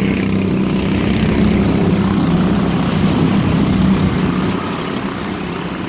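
Engines of junior mini race trucks running on the oval, a steady droning hum that eases off slightly about four and a half seconds in.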